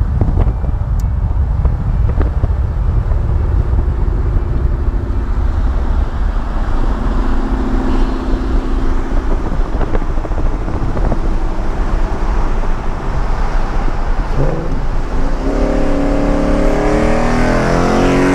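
Ford Mustang GT's Coyote 5.0 V8 running under way with a heavy low rumble, then revving up with a climbing pitch over the last few seconds.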